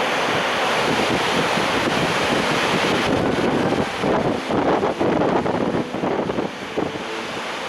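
Selfoss waterfall rushing with a steady roar of falling water. Wind buffets the microphone, gustier from about halfway through.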